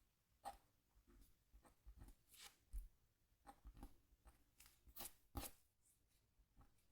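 Faint, irregular scratching of a stylus scraping short strokes into the coating of a scratchboard, with a few sharper scratches about half a second, two and a half seconds and five seconds in.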